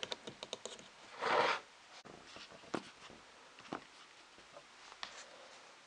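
Wooden ring box and lid being handled: a quick run of small clicks, one short scrape about a second in, then a few single taps.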